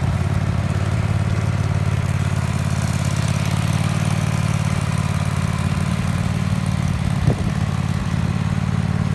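Tractor engine running steadily at an even speed, with one short knock about seven seconds in.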